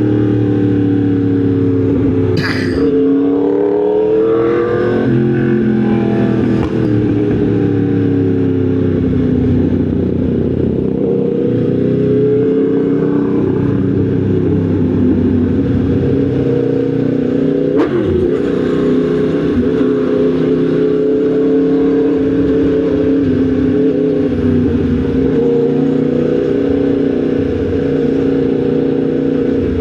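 Yamaha MT-10 SP's crossplane inline-four engine running on the move, its pitch rising and falling a few times in the first six seconds, then holding mostly steady. A sharp click about two and a half seconds in and another around eighteen seconds in.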